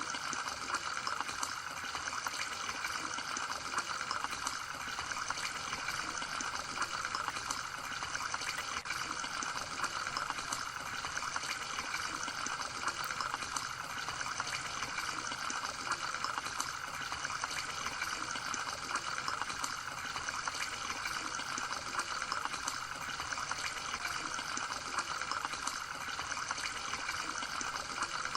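Steady running water, trickling and flowing without a break.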